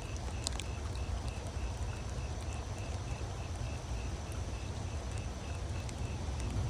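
Rainstorm: steady rain with wind rumbling on the microphone and scattered drips ticking irregularly. A faint high chirp repeats evenly about three times a second underneath.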